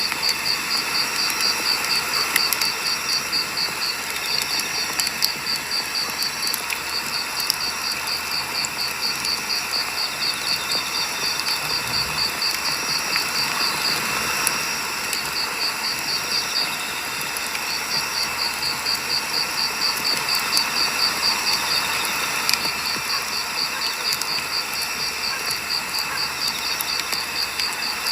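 Firewood burning in a campfire, crackling with scattered sharp pops over a steady hiss, while a cricket chirps in a rapid, even pulsing trill that pauses now and then.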